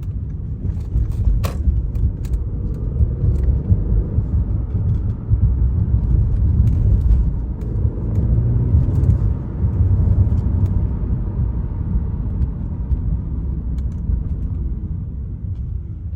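Low rumble of a 2014 Audi A8 L's 4.0 L twin-turbo V8 running, swelling and easing a little, with a few sharp clicks in the first two seconds.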